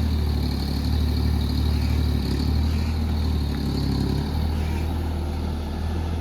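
JCB mini excavator's diesel engine running steadily, a low drone.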